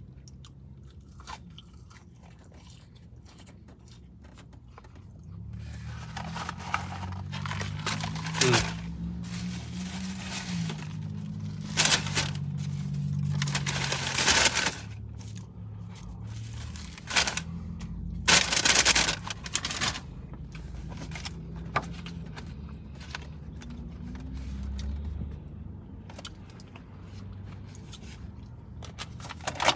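Close-up eating sounds: chewing and crunching of fried food, with several loud crackling bursts as the food and its paper wrapping are handled. A low hum comes in about five seconds in and fades near the end.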